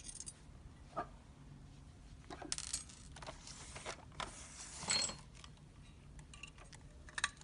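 Scattered light clicks, taps and scrapes of pliers working on the plastic shovel mount of a toy RC construction truck, with the loudest scrape about five seconds in.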